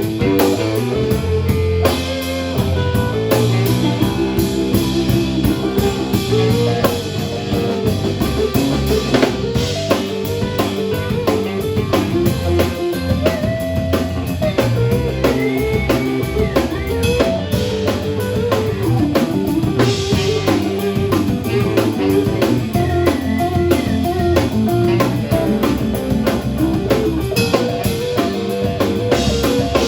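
Live band playing with a steady beat: drum kit, electric guitar and bass guitar.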